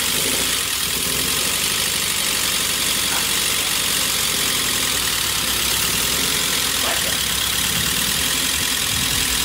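Swapped Honda VTEC four-cylinder engine running steadily at idle with a loud clatter from the valvetrain, "berisik banget" (very noisy). The clatter comes from the VTEC lost-motion assemblies having been fitted upside down in the head.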